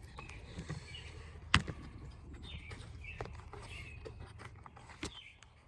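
Small birds chirping in short, falling calls, repeated every second or so. A sharp knock about a second and a half in and a smaller click near the end sit over a low steady hum.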